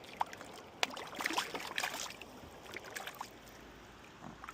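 Light, irregular splashing and sloshing of water as a small, just-caught trout is handled at the water's edge, with a creek flowing underneath.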